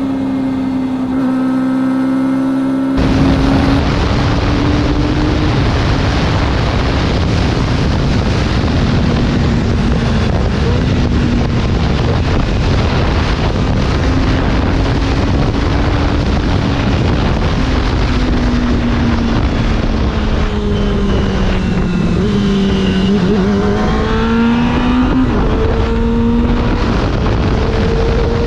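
Kawasaki ZX-25R's inline-four with an Akrapovič exhaust running at steady high revs while riding, its pitch wavering and then dipping and climbing again near the end. About three seconds in, heavy wind rush on the microphone sets in and largely buries the engine.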